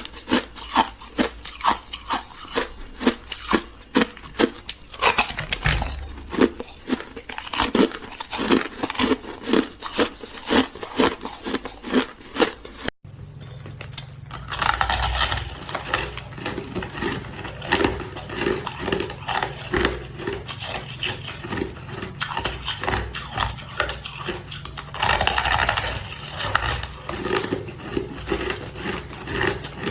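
Close-up chewing of hard shaved ice: a steady run of crisp crunches, about two a second, with a momentary break about halfway through after which the crunching goes on.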